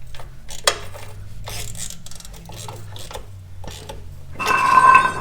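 Metal parts clinking and rattling as they are handled, over a steady low hum, with a short, louder ringing tone near the end.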